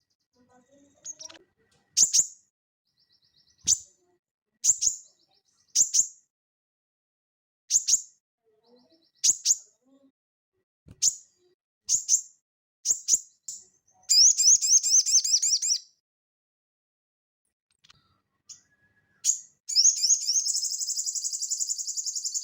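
Sogon songbird calling: short, sharp high chirps about once a second, breaking twice into a fast trill, once about two seconds long midway and again near the end.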